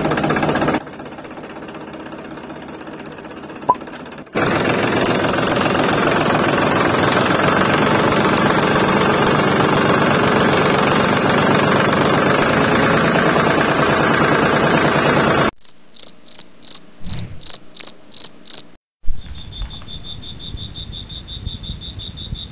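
Small electric motor and gears of a miniature toy tractor running steadily, quieter for a few seconds near the start and then loud again. Later come about nine evenly spaced high chirps, roughly three a second, then a steady high insect trill like crickets.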